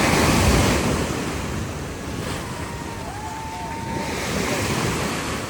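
Ocean surf breaking and washing up the beach, loudest in a surge right at the start and then easing, with wind buffeting the microphone.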